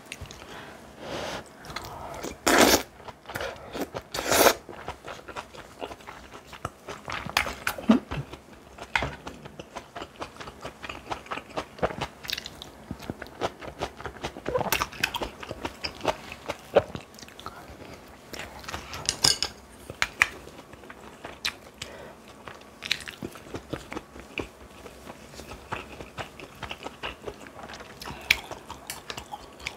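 Close-miked eating: a person chewing and crunching food, with many short crisp snaps and clicks throughout and two louder crunches about two and a half and four and a half seconds in.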